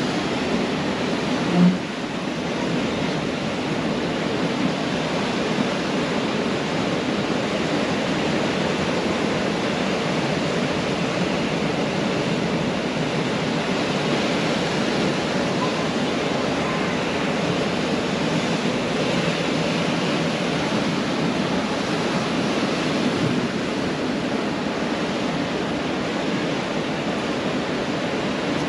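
Ocean surf washing on a beach: a steady, even rush of breaking waves. A brief low thud sounds once, near two seconds in.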